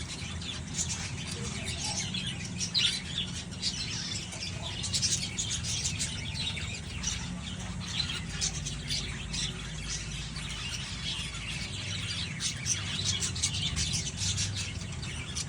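Budgerigars chirping and chattering, a dense run of short high chirps and squawks, over a steady low hum.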